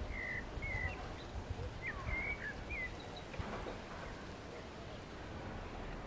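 Small birds chirping, several short calls in the first half, over steady low outdoor background noise.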